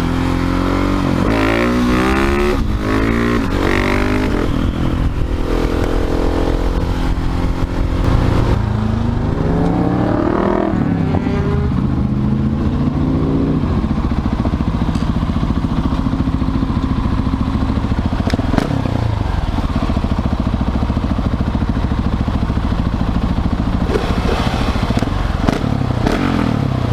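Husqvarna 701 Supermoto's single-cylinder engine, breathing through a Leo Vince slip-on exhaust, accelerating in repeated rising pulls broken by gear changes for about the first half, then running at a steady cruising speed.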